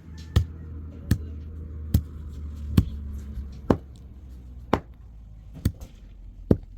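A series of sharp knocks, about one a second, eight in all, over a low hum that fades about halfway through.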